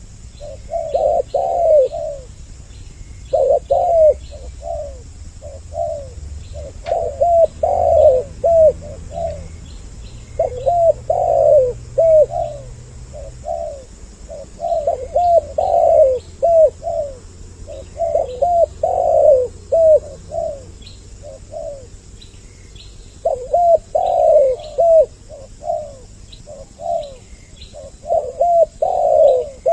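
Spotted doves (tekukur) cooing over and over in short phrases of several coos, a new phrase every second or two, with two birds calling on the lure track. Faint high chirps of small birds sound behind them.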